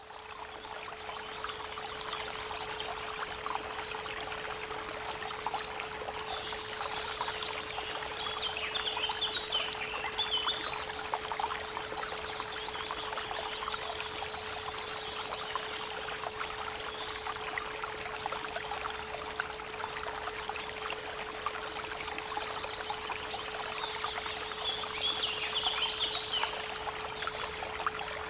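A steady 432 Hz pure tone held under the continuous rush of a creek, with songbirds singing over it; warbling bird phrases stand out about a third of the way in and again near the end.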